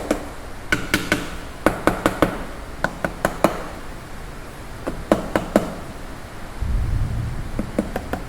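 Metal tools and engine parts clinking and knocking in short clusters of sharp clicks, some with a brief metallic ring, as the engine is worked apart by hand. A low rumble comes in late on.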